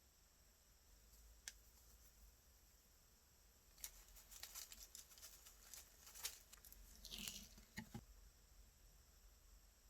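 Slime being handled, faint: one small click, then a run of soft crackles and clicks from about four to eight seconds in.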